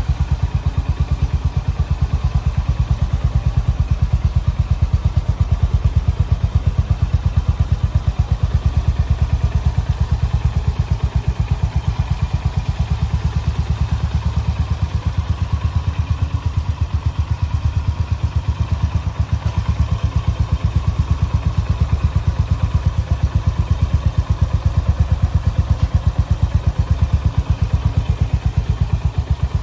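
Honda GB350's air-cooled single-cylinder engine idling steadily, its exhaust beating in an even, rapid pulse.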